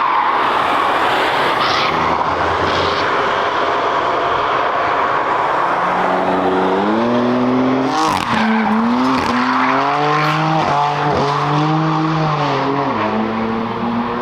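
Cars driven hard on a race circuit. A hiss of tyre noise comes first, then a car engine rises in pitch under acceleration about halfway through, with several sharp cracks and short breaks in the note as it shifts or lifts off. The pitch drops near the end.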